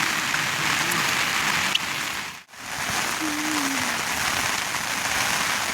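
Heavy rain falling steadily, a dense even hiss that breaks off for an instant about halfway through and then carries on.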